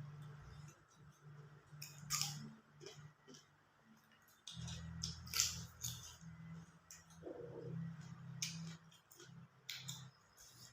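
A person eating close to the microphone: wet chewing with irregular sharp clicks and crunches.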